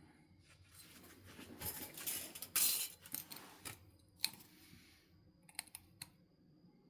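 Flintknapping work on a stone biface: a few seconds of gritty stone-on-stone scraping, then several sharp separate clicks of stone and tools.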